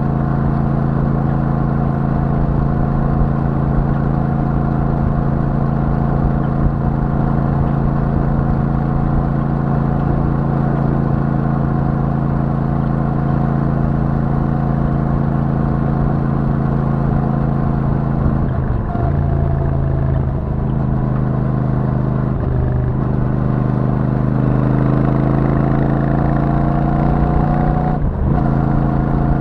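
Royal Enfield Super Meteor 650's 648 cc parallel-twin engine through its stock exhaust, cruising at a steady note. About two-thirds through the note dips twice, then climbs steadily as the bike accelerates, with a short break near the end before it settles again.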